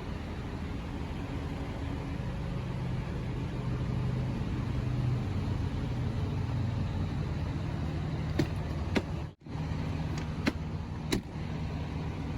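Steady low rumble of motor vehicles, engines idling or traffic passing, with a few sharp clicks in the last few seconds.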